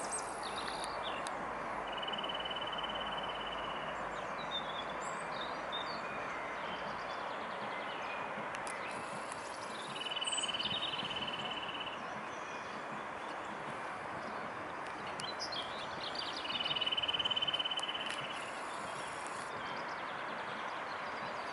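Outdoor park ambience: a steady background hum with a small bird's buzzy trill, about two seconds long, repeated three times, and scattered brief chirps.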